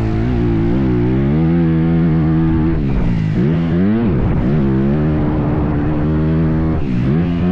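Motocross dirt bike engine running hard, its pitch rising and falling with the throttle, dropping sharply and climbing back about halfway through and again near the end.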